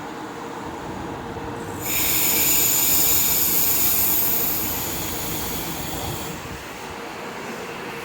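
Commuter train at the station, with a steady hum under it. About two seconds in, a loud, high hiss with a squealing edge starts suddenly and lasts about four seconds before dropping away.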